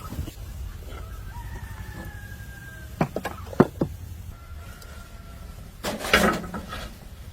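Faint thin calls early on, two sharp knocks about three seconds in, then a short loud animal call about six seconds in.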